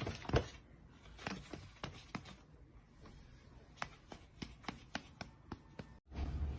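Faint, irregular clicks and taps, several a second, with no voice over them.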